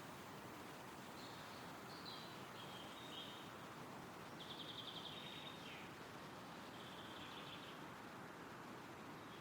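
Wind rustling through trees as a faint, steady hiss, with a small songbird singing short high phrases: a couple in the first few seconds, a fast trill about halfway, and another shortly after.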